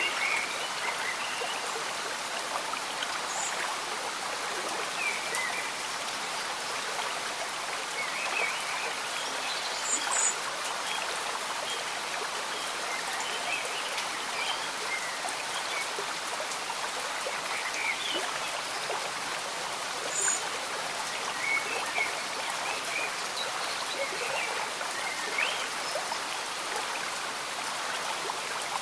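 A gently bubbling stream with rain falling: a steady hiss of running water dotted throughout with small gurgles and drips.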